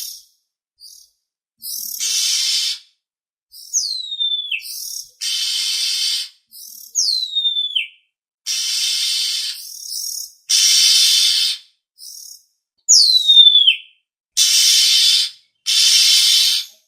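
Oriental magpie-robin (kacer) calls used as a lure: about six harsh, rasping churrs of roughly a second each, alternating with three clear whistles that slide steeply down in pitch, with short silences between.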